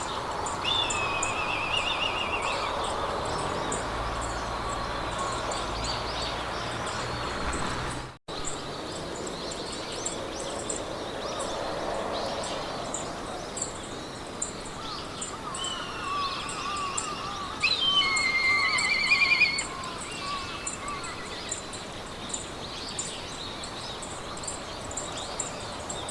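Meadow ambience: wild birds singing short warbled, trilled phrases over a hiss of wind in grass, with a steady row of fast, high ticks throughout. The loudest bird phrase comes about eighteen seconds in, and the sound drops out for a moment just after eight seconds.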